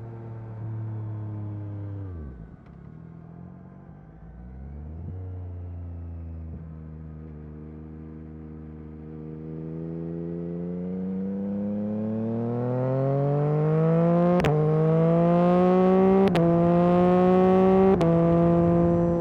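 Yamaha MT-09 SP's 890 cc inline three-cylinder engine through an Akrapovic carbon exhaust: the pitch drops as it slows about two seconds in, then it cruises steadily. From about ten seconds it accelerates hard with a steadily rising pitch, and three quick upshifts near the end each give a sharp crack from the exhaust.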